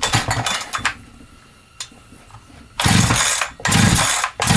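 Holzfforma G372XP chainsaw, a Husqvarna 372XP clone, being pull-started: a short burst at the start, then after a pause about three quick pulls on the recoil starter near the end, the engine cranking without catching. The saw is running lean and will not stay running, a fuel problem.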